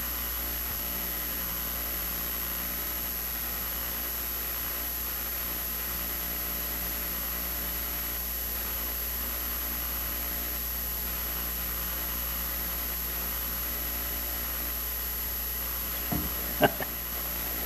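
Room tone: a steady low hum with a faint high whine. Near the end come two short knocks.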